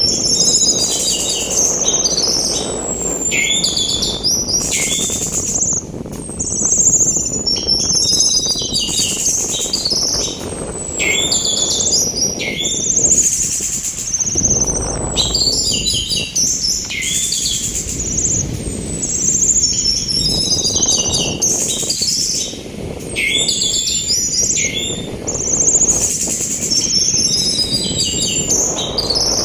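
Orange-headed thrush singing a string of short varied phrases, each opening with a high falling whistle and repeated every couple of seconds, over a steady rush of sea wind.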